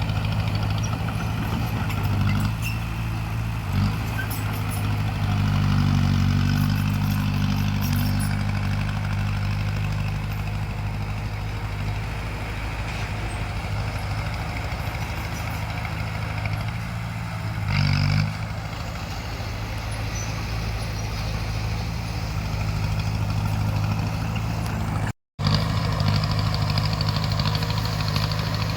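Heavy diesel engine of a crawler bulldozer running steadily, rising in level for a few seconds about five seconds in and briefly again around eighteen seconds, as under load.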